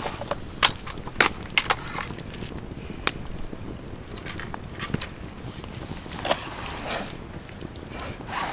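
Scattered sharp clicks and knocks with some light scraping, the sound of things being handled at a campfire, such as tongs and roasted sweet potatoes pulled from the coals.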